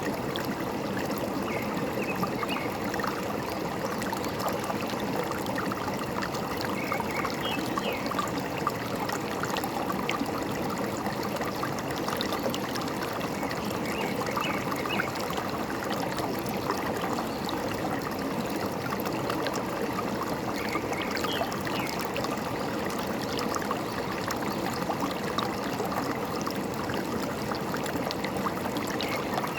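A stream running and trickling steadily, with a few faint, brief bird chirps now and then.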